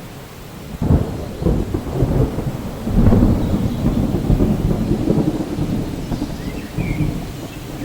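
Rumbling thunder over steady rain. The rumble swells about a second in and is loudest around three seconds, and a few faint bird chirps come in near the end.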